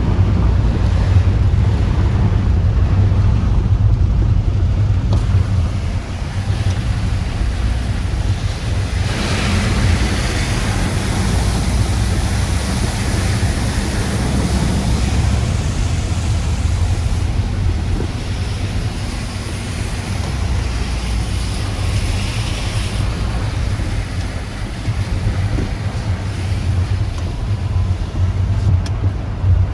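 Typhoon wind buffeting the microphone with a heavy, steady rumble under the hiss of driving rain. About nine seconds in, the hiss swells louder for several seconds, then eases.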